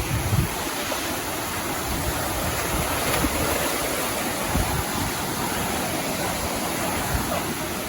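Steady rush of falling water from a waterfall, with a few low thumps of wind on the microphone.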